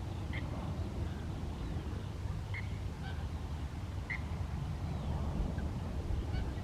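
Birds calling outdoors: a few short chirps, spaced a second or two apart, over a steady low rumble.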